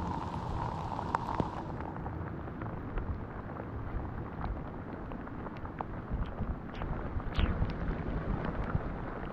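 Rain falling, with many small drops ticking close by over a low, rumbling wash of noise.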